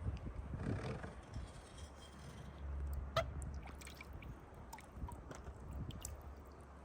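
Kayak paddling: a paddle stroke swishing through the water in the first second, then scattered drips and small splashes from the blade, over a low rumble of wind on the microphone.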